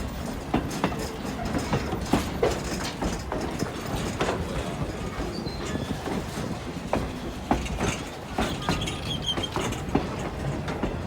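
Strasburg Rail Road train behind steam locomotive No. 90 rolling slowly into the station, its car wheels clicking irregularly over rail joints with a steady rumble, and a brief high wheel squeal near the end.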